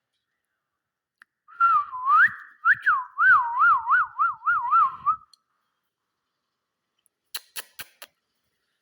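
A clear whistle, first gliding up and down, then wavering quickly in pitch at about four wavers a second for a few seconds. A few sharp clicks follow near the end.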